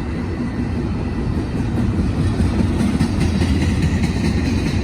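Freight train cars rolling past a crossing: a steady, loud rumble of wheels on rail.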